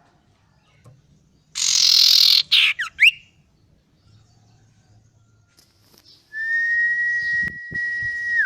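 Male iora (cipoh) singing: a harsh noisy burst followed by two quick swooping whistles, then, after a pause, one long steady whistle held for about two seconds that slides down in pitch at the end.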